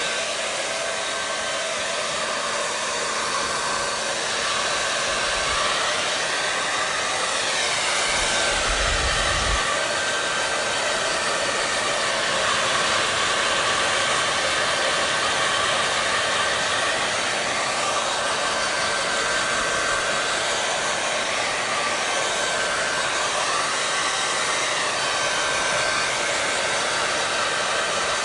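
Electric hair dryer running continuously, a steady rush of blown air with a faint constant hum. Now and then the tone of the air rush slowly rises and falls.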